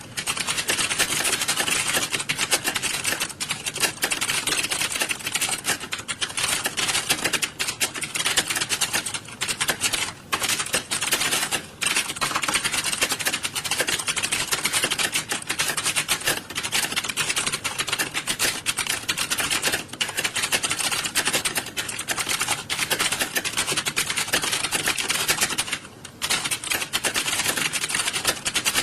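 Many computer keyboards clattering at once, a dense and unbroken patter of overlapping key clicks from a hall full of people typing. It thins for a moment a few times.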